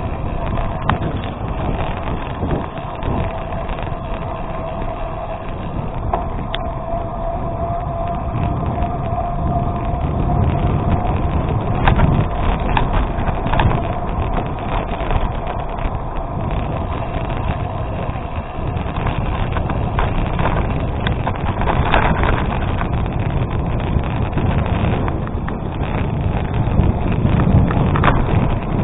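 Gravel bike rolling on an unpaved road: steady tyre and wind noise with scattered clicks and rattles from the bike going over bumps.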